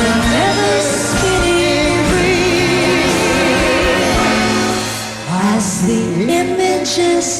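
Song performance: singing held on long notes with vibrato over instrumental accompaniment, with sliding vocal runs in the second half.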